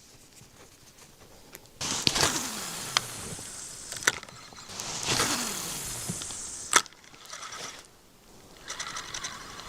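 Two casts with a fishing rod and reel: each time the line whirs off the spool with a pitch that falls as it slows, and a sharp click follows as the reel is closed. Near the end the reel starts cranking with a fast ticking as the jig is retrieved.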